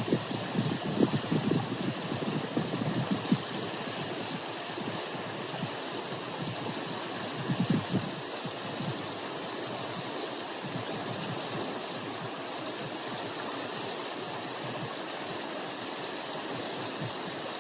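Wind gusting against the microphone, rumbling in bursts over the first few seconds and again about eight seconds in, over a steady rushing outdoor noise.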